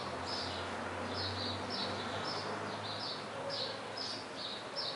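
A small bird chirping over and over: short, high, falling notes about two a second, over a faint low hum.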